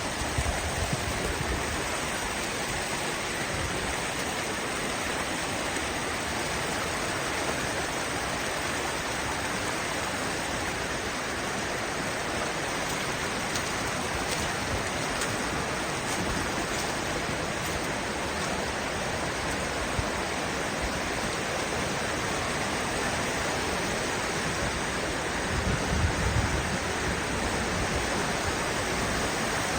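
Kanarra Creek's water rushing through a narrow canyon, a steady, even rush. There is a brief low rumble about 26 seconds in.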